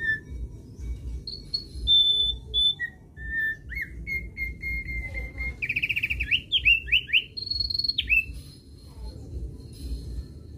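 Thick-billed white-eye (opior paruh tebal) singing: a phrase of clear whistled notes, a fast trill about halfway through, a quick run of downward-slurred notes, then a long high note, after which the song stops. A steady low rumble runs underneath.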